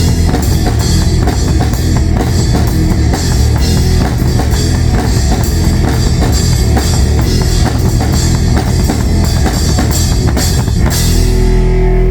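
A band playing rock music, with drums keeping a fast, steady beat. About eleven seconds in the drums stop and a low chord is left ringing.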